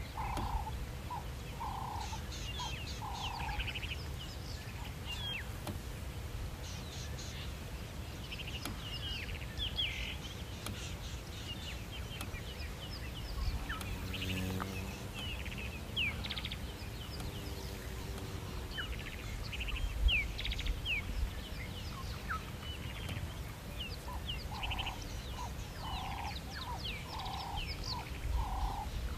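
Wild birds calling: a scatter of short, high chirps and sweeping notes. A series of evenly spaced lower notes, about two a second, comes at the start and again near the end, over a steady low rumble.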